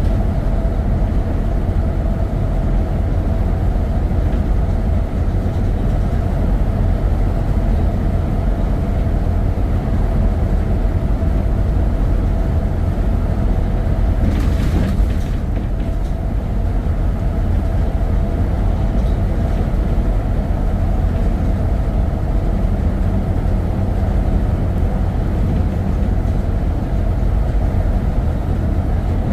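Steady low rumble of a moving road vehicle, engine and road noise heard from on board, with a brief hiss about halfway through.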